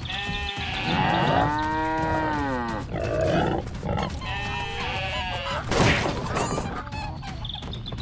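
Cow mooing in one long call that rises and falls, starting about a second in, with shorter bleats from goats before and after it.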